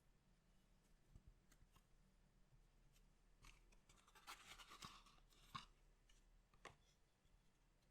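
Faint crinkling and rustling of trading card packs and cards being handled, with a few light clicks. The crinkling is loudest from about halfway through, and a sharp click comes soon after it.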